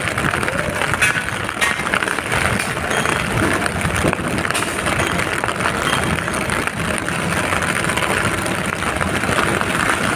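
Steady, continuous noise of a vehicle engine running in the rain.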